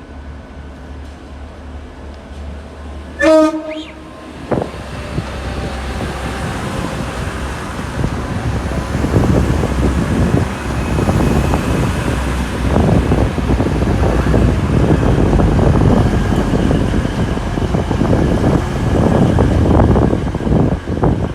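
A train sounds a short horn blast, then runs in close by, its rumble building and staying loud with the clatter of wheels over the rail joints.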